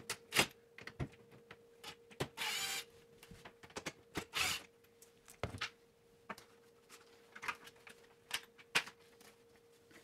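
Makita cordless impact driver whirring twice, briefly each time, as it backs the screws out of a dishwasher's front access panel, amid clicks and knocks from handling the panel and parts.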